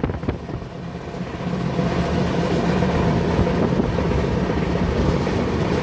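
Kushinagar Express passenger train running along the track, heard from on board: a steady rumble of wheels on rail with some wind. It dips briefly just after the start and builds back up about two seconds in.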